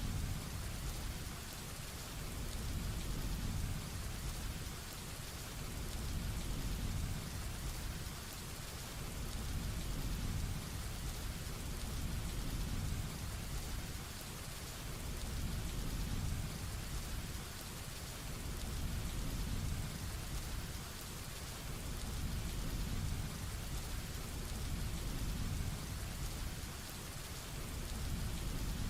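Heavy rain falling steadily, with a low thunder rumble that swells and fades about every three seconds.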